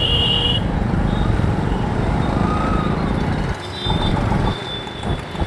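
Riding a motorbike through city traffic: a steady low rumble of wind and engine noise that eases off about three and a half seconds in. A high steady tone cuts off about half a second in, and a few fainter short high tones follow later.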